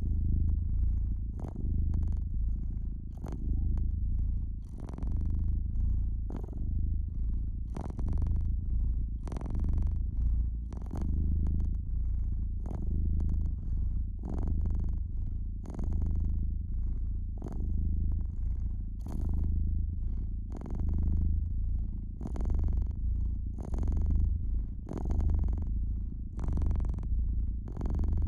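Domestic cat purring steadily, the low purr swelling and easing with each breath every couple of seconds, over the crackle and pops of a wood fire.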